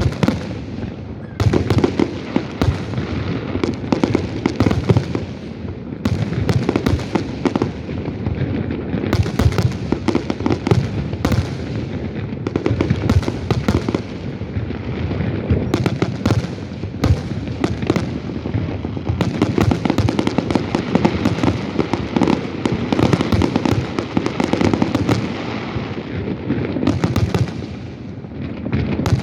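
Fireworks display going off continuously: a dense barrage of booming shell bursts mixed with rapid crackling.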